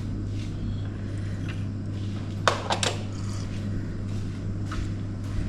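A few sharp clinks, like tableware, about two and a half to three seconds in, with fainter knocks elsewhere, over a steady low hum.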